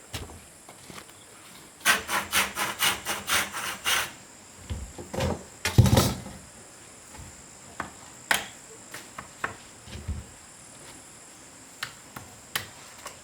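A quick run of rasping strokes on wood, about five a second, like a hand saw cutting, then a heavier knock and scattered taps and clicks. A steady high insect drone runs underneath.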